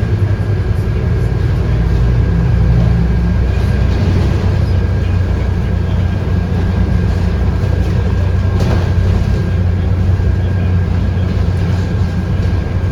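Scania K230UB bus's 8.9-litre five-cylinder DC9 diesel running under way, heard from inside the bus, with a thin steady high whine over the engine's low drone. A brief knock comes about nine seconds in.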